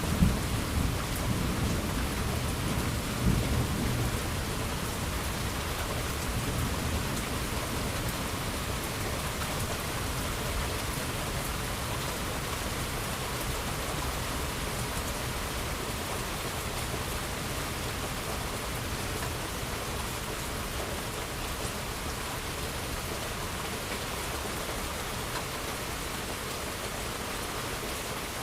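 Steady rain falling, with a low thunder rumble in the first few seconds that dies away, leaving an even rain hiss.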